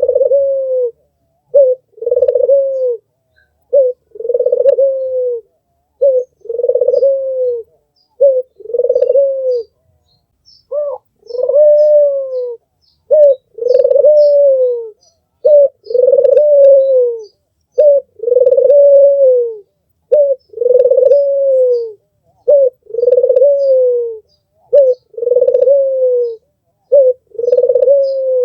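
Albino puter, a white red-eyed Barbary dove, cooing over and over. Each phrase is a short note followed by a longer coo that falls at the end, about one phrase every two seconds. Faint high chirps run in the background.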